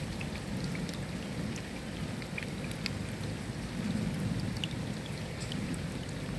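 Steady rainfall, with scattered individual drops ticking sharply against the hiss. A low rumble of distant thunder swells about four seconds in.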